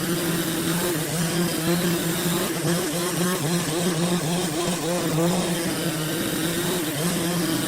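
An engine running steadily, its drone wavering slightly in pitch.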